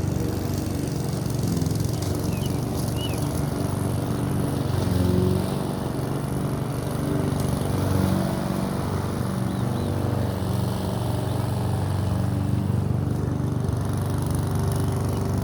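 Lawn mower engine running steadily, swelling briefly a couple of times as it is pushed along.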